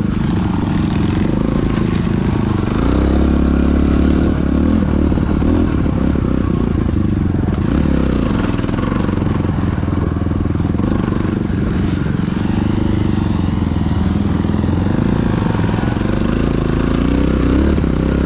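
Dirt bike engine running under way, its pitch rising and falling as the throttle is opened and eased off.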